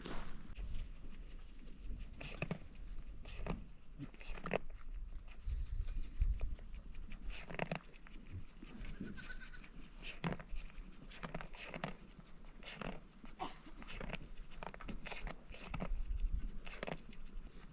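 Goats bleating, among many scattered short knocks and clicks.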